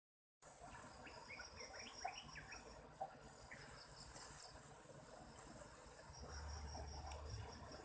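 Crickets and other insects calling: a steady high trill with a second, pulsing chirp repeating over it. A few short higher chirps come about one and a half to two and a half seconds in.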